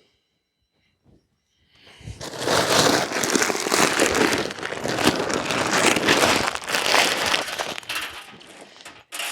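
Shelled corn pouring out of a cut-open sack into a deer feeder: a dense rattle of kernels that starts about two seconds in, runs for about seven seconds and tails off near the end.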